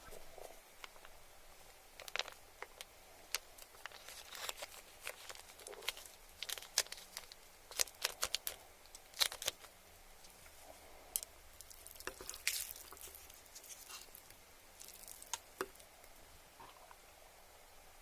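Close-miked eating sounds: irregular crunching, tearing and sticky mouth clicks while chewing, denser and louder in the middle.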